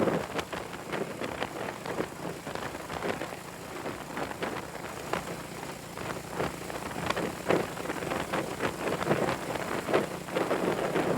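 Wind buffeting the microphone of a moving motorcycle in crackling gusts, over a faint steady engine hum. The buffeting eases in the middle and picks up again near the end.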